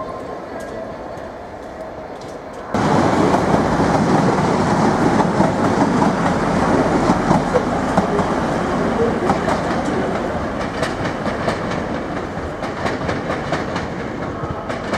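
Class 185 diesel multiple unit passing close by: loud running noise with rapid wheel clicks over the rail joints. It starts abruptly about three seconds in, after quieter rail noise, and eases off slowly toward the end.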